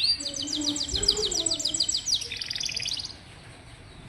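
Canary singing a fast trilled song of rapidly repeated high notes, switching to a new phrase about a second in and again about two seconds in, then pausing about three seconds in.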